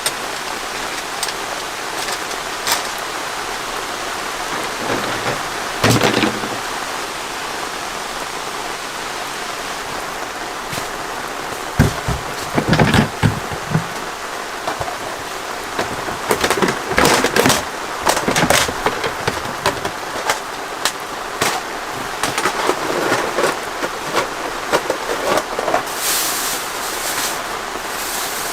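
Steady rain falling, with several rumbles of thunder through the middle, and louder bursts of splashing near the end.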